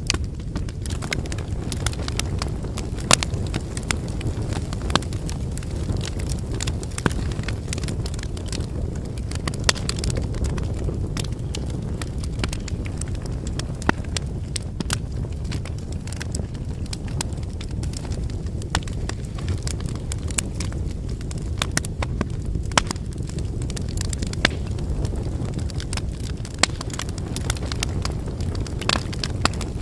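Wood fire burning with a steady low flame rumble and irregular sharp crackling and popping of the burning logs, a few pops louder than the rest.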